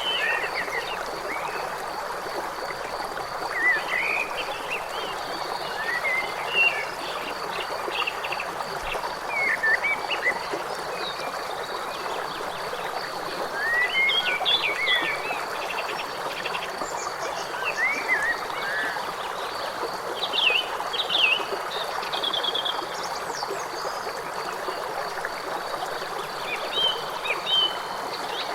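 A river flowing with a steady rush, with small birds chirping in short scattered phrases every few seconds over it.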